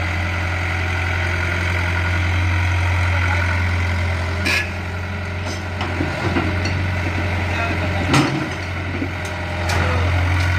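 Tractor engine running steadily with a low hum, with a couple of sharp knocks partway through, and the level easing off in the middle before picking up again near the end.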